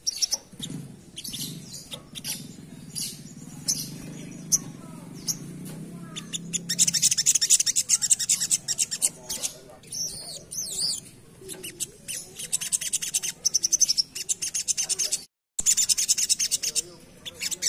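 Sogok ontong songbird singing a rapid, high-pitched chattering song in runs of a few seconds with short pauses between them. A low hum sits under the first half, and the sound drops out completely for a moment about fifteen seconds in.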